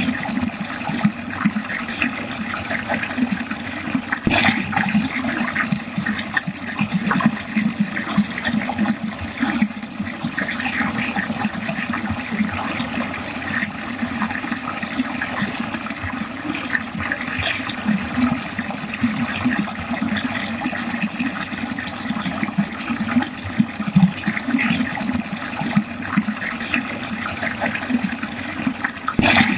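Water draining steadily, gurgling and splashing unevenly as it runs down a drain. Two sharp ticks stand out, about four seconds in and again near the end.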